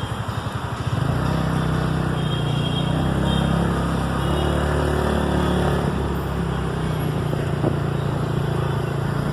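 Motor vehicle engine running in road traffic, growing louder about a second in and then holding steady.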